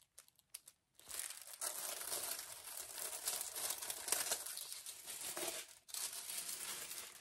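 White tissue paper rustling and crinkling as it is unfolded by hand from around a silk scarf in a gift box. It starts about a second in and pauses briefly near six seconds.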